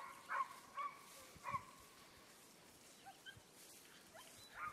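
A dog gives a few short, faint barks in the first second and a half, with weaker sounds after.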